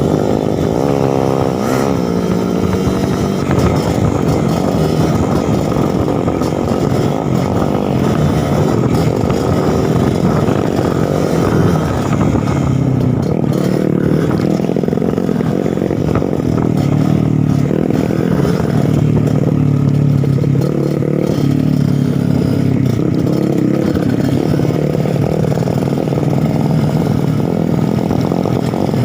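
Two-stroke single-cylinder engine of a Suzuki TS 125 trail bike running under riding load, its pitch rising and falling with the throttle.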